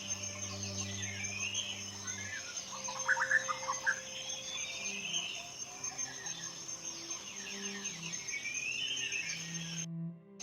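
Forest birds singing repeated rising-and-falling phrases and short trills, over a steady high insect drone. The sound cuts out briefly near the end.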